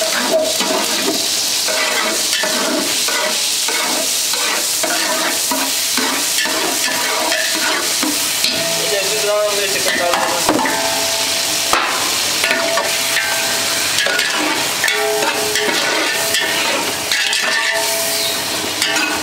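Ginger-garlic paste sizzling in hot oil in a large aluminium pot while a metal spatula scrapes and stirs it. About halfway through, raw chicken pieces are tipped in from a metal plate and stirred into the hot oil.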